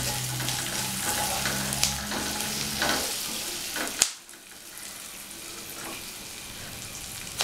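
Sliced onions and cumin seeds sizzling in hot oil in a non-stick pan, stirred with a wooden spatula that scrapes the pan a few times over the first four seconds. A sharp click comes about four seconds in, and after it a quieter, steady sizzle goes on.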